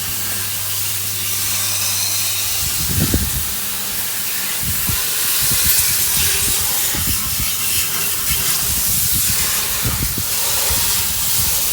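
Water spraying from a garden hose onto an engine bay, rinsing off degreaser: a steady hiss of spray with scattered low thumps.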